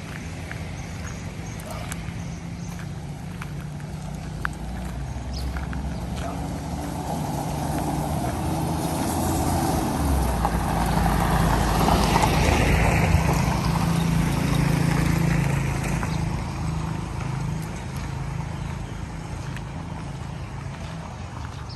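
A motor vehicle's engine running, growing louder to a peak about halfway through and then fading, as if the vehicle passes close by.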